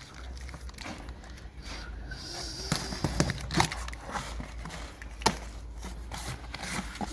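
Paper and cardboard packaging crinkling and rustling, with scattered sharp clicks and knocks, as new engine parts are unpacked. A faint steady low hum sits underneath.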